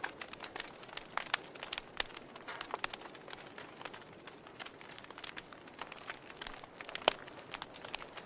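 Wood fire crackling in a fireplace: irregular sharp pops and snaps over a soft steady hiss, with one louder pop about seven seconds in.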